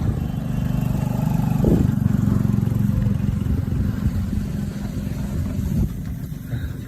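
A motor vehicle's engine running steadily with a low hum, easing off gradually over the last few seconds.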